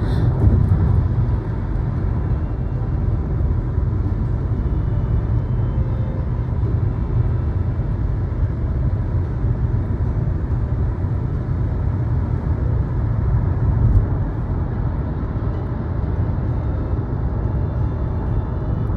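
Steady low rumble of a moving vehicle, with one brief knock about three-quarters of the way through.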